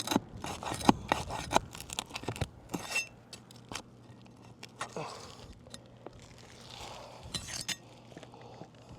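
Metal pry bar working under asphalt shingles to pull roofing nails: a quick run of sharp clicks and taps of metal on nail and shingle over the first few seconds, then sparser taps and a couple of short scrapes.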